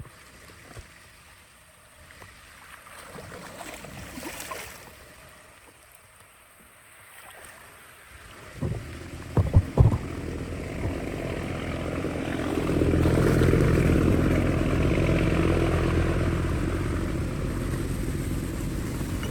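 Water starting to rush and gush, swelling to a loud steady rush about halfway through, with a few sharp knocks just before it builds.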